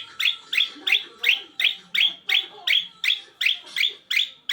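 A bird calling excitedly in breeding condition: a fast, even string of loud, sharp downward chirps, about three a second without a break.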